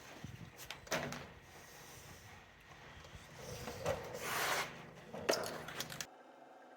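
Faint handling noises: a few light knocks and clicks, with a short stretch of rustling noise in the middle, cutting off suddenly near the end.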